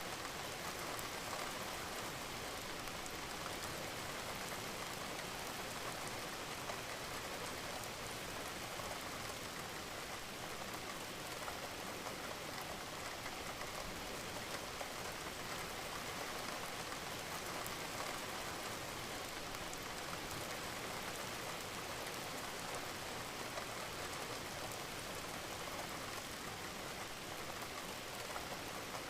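Steady rainfall: a constant, even hiss of rain with a fine patter of individual drops.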